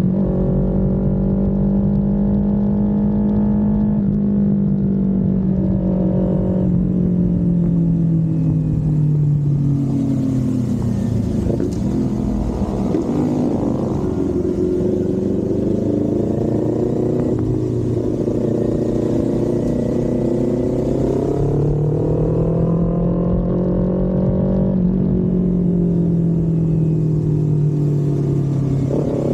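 Kawasaki Z400 parallel-twin engine and exhaust riding along, its pitch rising and falling with the throttle, with several sudden steps in pitch as the gears change. Wind rushes on the microphone through the middle stretch.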